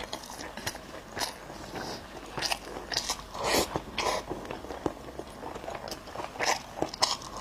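A person biting and chewing food close to the microphone: irregular short crunchy bites and mouth clicks.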